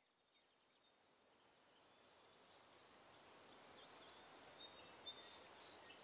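Faint countryside ambience fading in: small birds chirping with short, quick notes over a steady high hiss.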